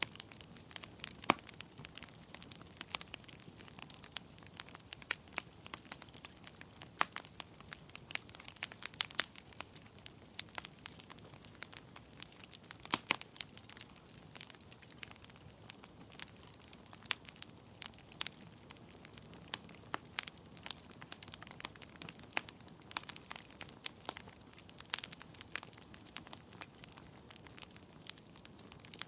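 Wood fire burning in a fireplace: logs crackling and popping with irregular sharp snaps over a soft steady hiss of flame, the loudest pops about a second in and near the middle.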